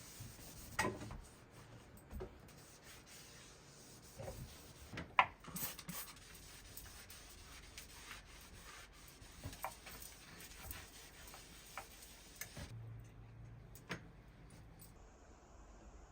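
Quiet rubbing and scraping with scattered light clicks and knocks, the sounds of small objects being handled by hand.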